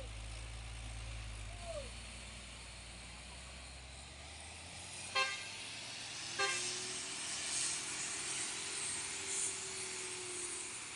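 Heavy truck diesel engine running with a low rumble that fades away about four to five seconds in. Two sharp clicks follow about a second apart, then a faint steady hiss with a thin humming tone.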